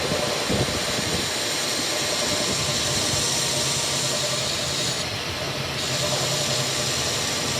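A machine running steadily: a low even hum under a loud hiss.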